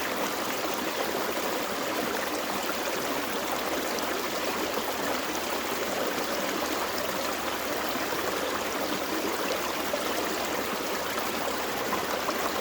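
Gentle forest stream flowing over rocks, a steady babbling rush of water.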